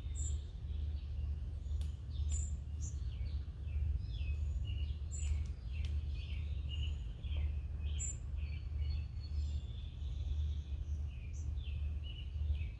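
Small wild songbirds chirping and twittering, many short calls overlapping, over a steady low background rumble.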